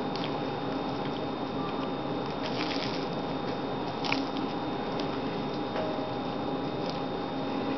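A man chewing and biting into a sandwich: faint wet mouth sounds and a few small clicks, the strongest about four seconds in, over a steady hiss with a faint steady whine.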